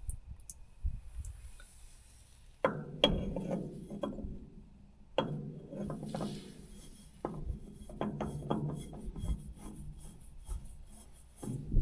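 Irregular rubbing and scraping with light knocks, in uneven bouts, from hands and tools working on farm machinery during an oil and filter change.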